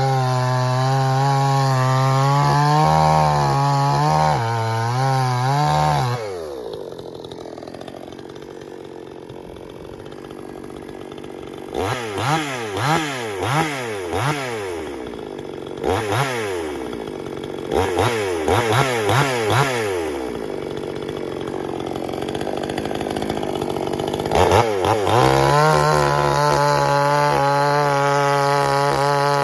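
Pinkway 63cc two-stroke chainsaw running at full throttle with its pitch wavering under load, then dropping to idle about six seconds in. Around the middle it is blipped up and down several times in quick succession, and near the end it revs back up and holds high. It is running its factory-ground chain, which the owner finds cuts poorly in big wood.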